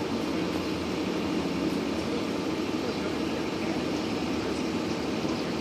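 A large vehicle's engine idling, running steadily without change.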